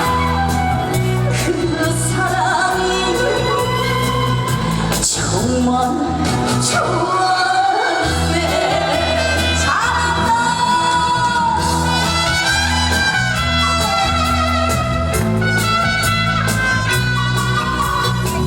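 A woman singing a Korean trot song live over an amplified backing track with a steady bass beat.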